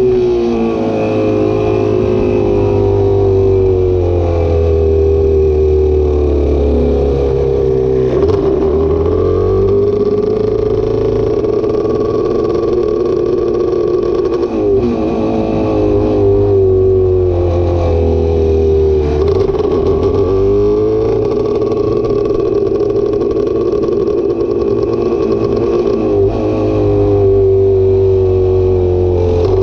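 Vehicle engine running at high revs. Its pitch drops sharply four times, about every six seconds, and climbs back up after each drop.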